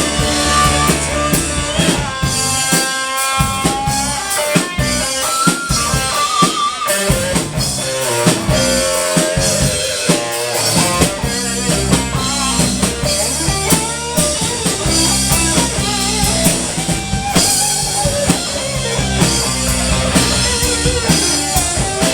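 Live rock band playing an instrumental break with no singing: a drum kit keeps a steady beat under bass and electric guitar, with a wavering lead line from about two seconds in.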